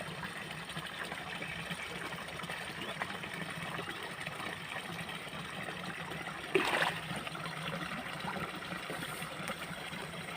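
Shallow rice-paddy water trickling and gurgling steadily, with one brief louder splash-like noise about six and a half seconds in.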